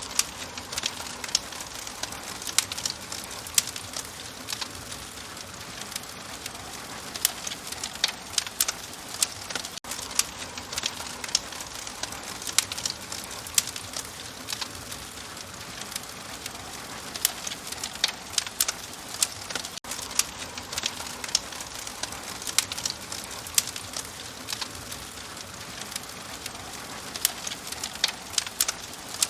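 Fireplace fire crackling: frequent, irregular sharp pops and snaps over a steady hiss.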